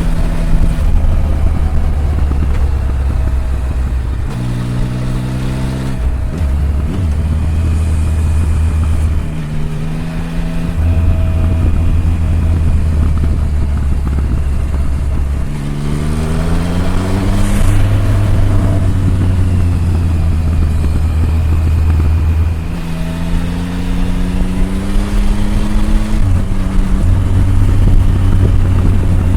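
Triumph Tiger 1050's inline three-cylinder engine under way on the road, its pitch rising several times as it accelerates and dropping at each gear change, with steady cruising in between.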